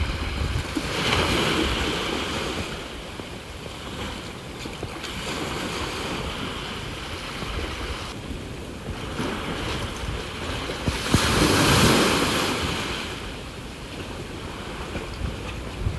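Sea waves washing onto the shore, surging and receding, with the biggest wave breaking about eleven seconds in. A low wind rumble on the microphone runs underneath.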